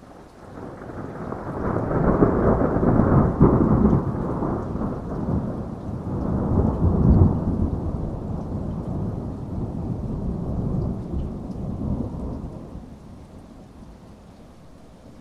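A long rolling peal of thunder that swells about a second in, peaks twice and fades away near the end, over steady rain.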